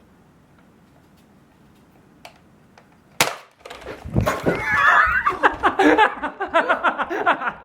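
A sudden sharp crack about three seconds in, then voices laughing and shrieking excitedly, mixed with many quick sharp clicks.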